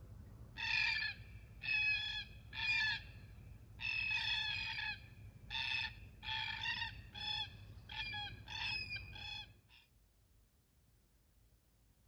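A bird calling over and over, about a dozen short calls in quick succession, that stop abruptly near the end.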